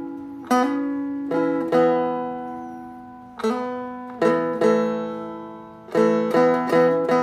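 Seagull Merlin, a fretted dulcimer-style strum stick, picked and strummed over ringing drone strings, playing a simple riff of about ten plucked notes and strums, some in quick pairs, each left to ring and fade.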